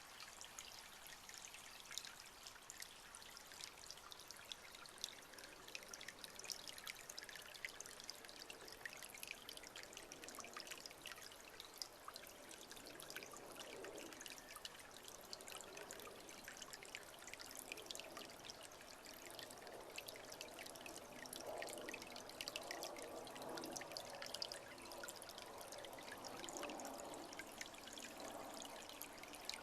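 Faint trickling water, a steady crackling patter.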